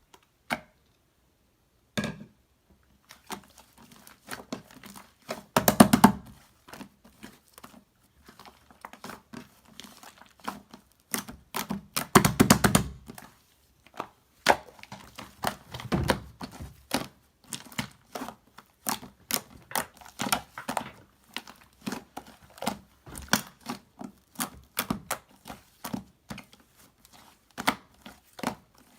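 Crinkling and rustling of things being handled by hand, in a stream of small clicks and taps, with louder crinkly stretches about six seconds in and again around twelve seconds in.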